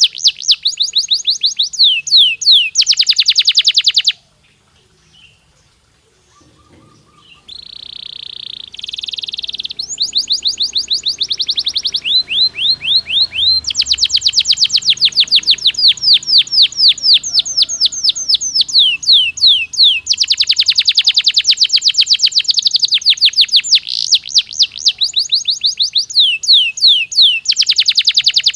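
Male domestic canary singing: fast trilled phrases of high, rapidly repeated sweeping notes, broken by a short pause about four seconds in, then buzzy held notes and long rolling trills.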